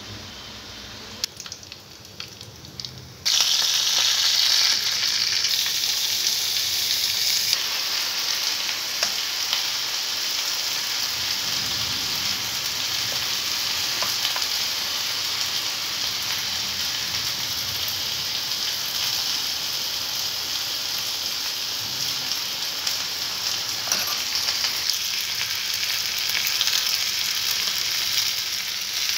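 Chopped onions and potatoes frying in hot oil in a kadai: quiet for the first three seconds or so, then a loud, steady sizzle starts suddenly and carries on, with a few light clicks of the spoon against the pan.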